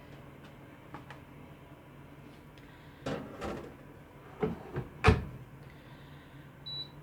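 Air fryer being loaded: a handful of clunks and knocks from its tray and door, the loudest about five seconds in, then a short electronic beep from its controls near the end.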